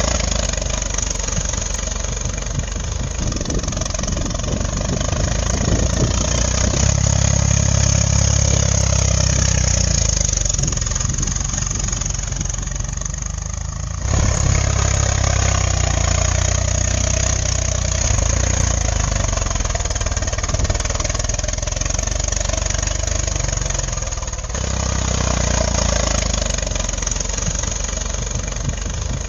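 An engine running steadily with a deep rumble, the sound jumping abruptly twice where the footage is cut.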